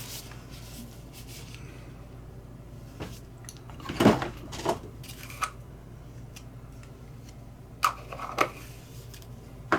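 Small metal lighter parts and tools clicking and tapping as a butane lighter is taken apart and reassembled by hand: a few scattered clicks, the loudest about four seconds in, over a steady low hum.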